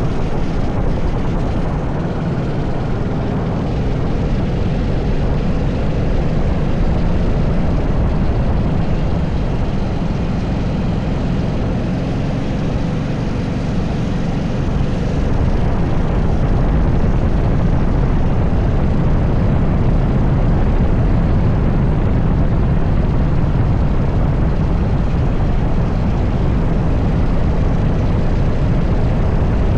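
80cc racing kart engine running continuously at speed during a qualifying lap, a little louder from about halfway through.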